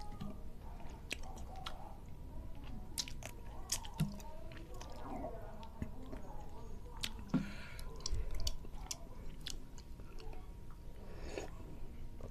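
Close-up chewing and biting of a person eating by hand, with many sharp wet mouth clicks and smacks and a few louder knocks.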